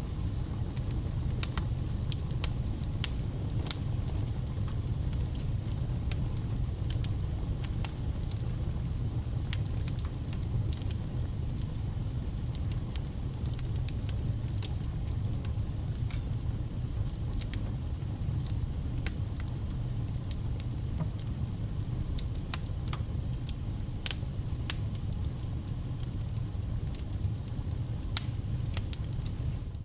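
Wood fire burning, with frequent sharp, irregular crackles and pops over a steady low rumble of flame.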